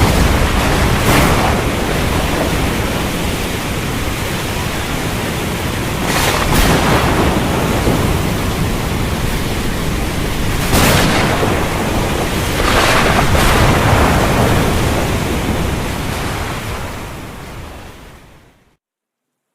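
Heavy storm noise, a dense steady hiss like downpour, broken by four sharp thunder cracks. It fades out to silence near the end.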